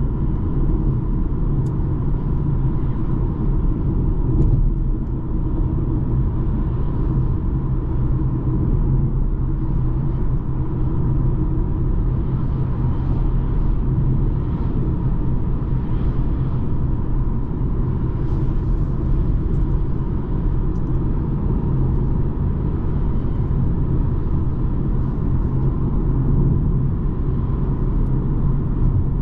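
BMW 220d xDrive's four-cylinder diesel engine and tyres giving a steady rumble while cruising, with an even low drone throughout.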